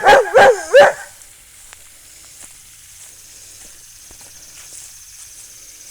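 A dog barking at a large beetle: about three quick, high barks in the first second, then only a faint steady high hiss.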